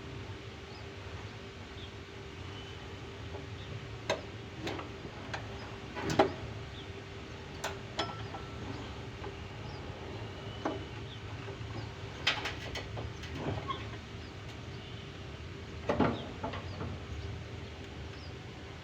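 A steady low hum with a scattering of short sharp knocks and clicks, about nine in all and loudest about six seconds in.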